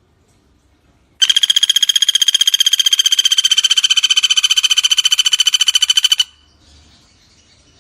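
Common flameback woodpecker (pelatuk bawang) giving one long, rapid, even rattling trill, starting about a second in and lasting about five seconds before stopping abruptly.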